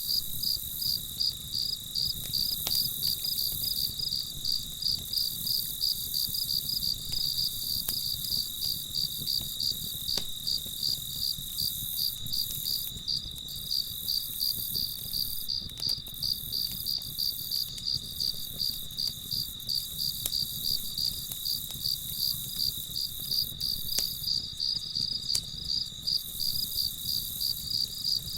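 Crickets chirping in a steady, evenly spaced rhythm, over a low steady rumble, with a few faint clicks here and there.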